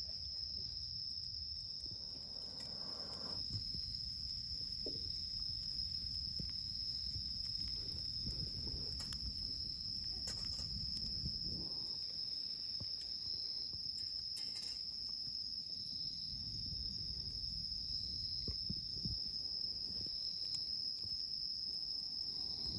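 Crickets or similar night insects singing: one continuous high-pitched trill with a fainter chirp repeating just below it, over a low rumble and a few faint clicks.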